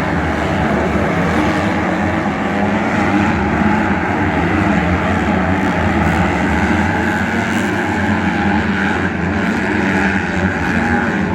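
Motocross bike engines running hard on the track, a steady loud engine noise.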